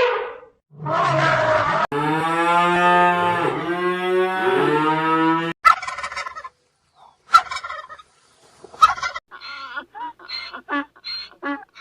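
Cattle mooing in one long, low call, followed by a run of short, rapid calls from poultry.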